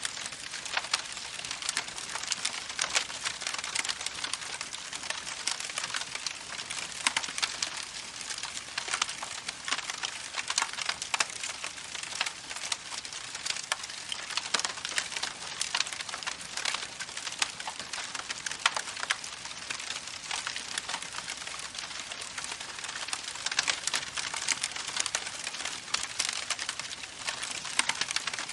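Campfire crackling: a dense, irregular run of small pops and snaps over a steady hiss.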